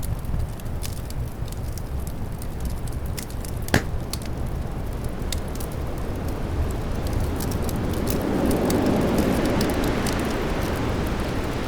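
Fireplace crackling with scattered sharp pops, one louder than the rest about four seconds in, over a low rumble of wind that swells into a stronger gust in the second half.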